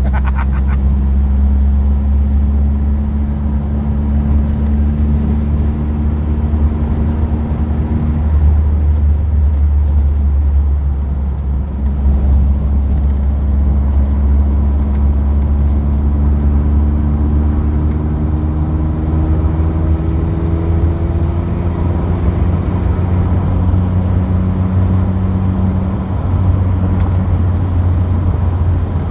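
Car engine running under way, with a steady low hum and road noise. The engine note changes about 8 seconds in, then rises gradually over the middle of the stretch.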